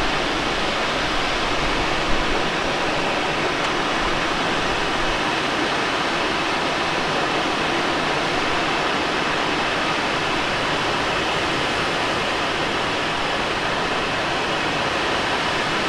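Steady rush of air streaming past the cockpit of a Let L-13 Blaník glider in flight, with no engine, while it runs fast downwind in a strong wind. A single small tick sounds about two seconds in.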